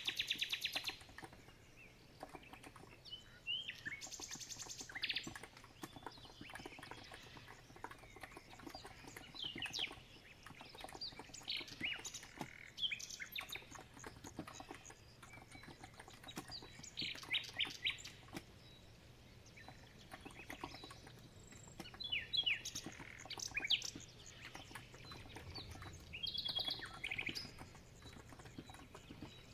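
Birds chirping and trilling in repeated short calls, over steady soft clicking of typing on a COX Empress electro-capacitive keyboard.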